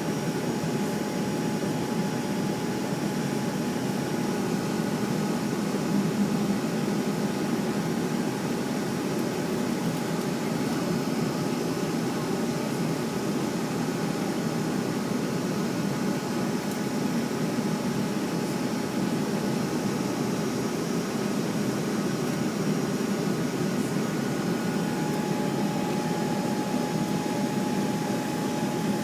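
Jet airliner cabin noise heard from a window seat by the engine: a steady rush of the jet engines and cabin air with thin whine tones over it, holding an even level with no run-up. About 25 seconds in, one of the whine tones fades and a lower one grows stronger.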